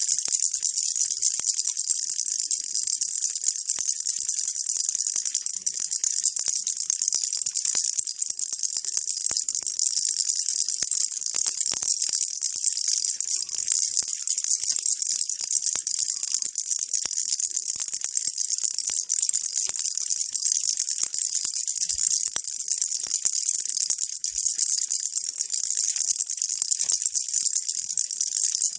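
Baby rattle shaken continuously as white noise: a dense, steady, high-pitched rattling with no breaks.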